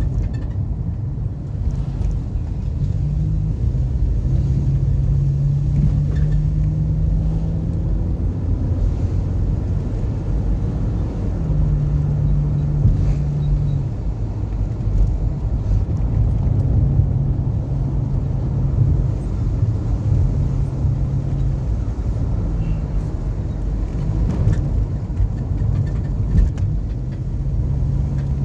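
Car driving: a steady low rumble of engine and road, with a low engine hum that steps up and down in pitch now and then.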